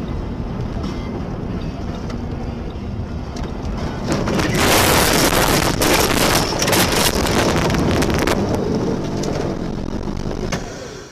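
Car driving noise heard from inside a car through a dashcam: a steady rumble of engine and road. About four seconds in, a loud rushing, crackling noise rises and lasts about four seconds before easing off.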